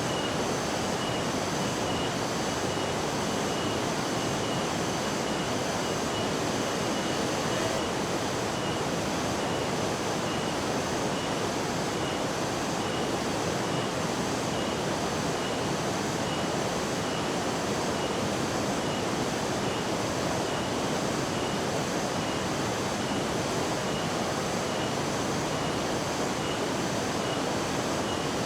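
Steady roar of rushing water from a large waterfall, even and unbroken. A faint high-pitched pulsing tone repeats at an even rate above it.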